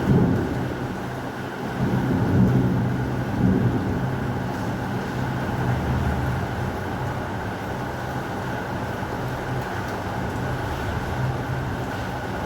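Steady heavy rain with low rolls of thunder, swelling at the start and again about two to four seconds in.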